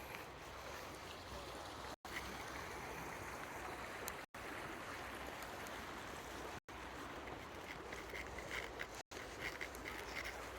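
Steady wash of flowing river water, with a few faint short high chirps in the later part. The sound cuts out completely for an instant about every two seconds.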